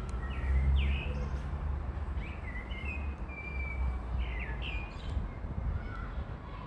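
Birds chirping: short, sharply rising whistled calls, repeated every second or so, over a steady low rumble.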